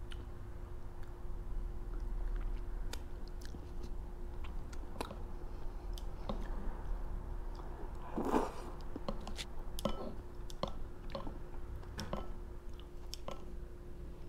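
Mouth sounds of eating ramen noodles: chewing with many small wet clicks and smacks, and a short slurp a little past the middle, over a faint steady hum.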